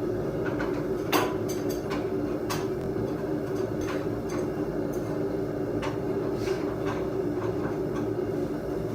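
Forge running with a steady drone while a blade heats in it for quenching, with a few short metal clinks and knocks, the clearest about a second in.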